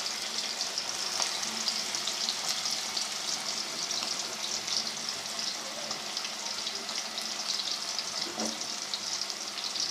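Minced-beef kababs shallow-frying in hot oil over a low flame: a steady sizzle scattered with small crackles.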